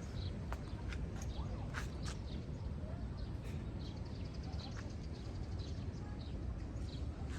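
Small birds chirping now and then over a steady low rumble, with a few sharp clicks at irregular moments.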